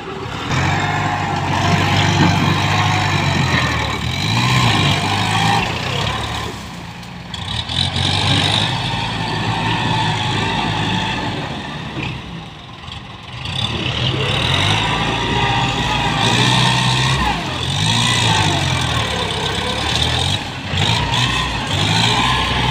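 ZT 155 tractor's diesel engine running hard, its pitch rising and falling as the revs change, easing off briefly about a third of the way in and again near the middle.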